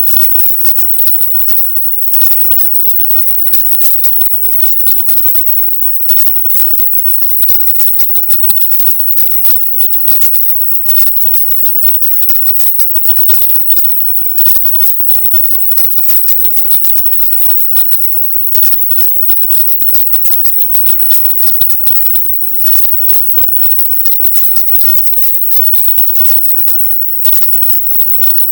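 Silent subliminal track: a dense, hissing, high-pitched wash of noise with no clear tune, cutting out briefly every few seconds.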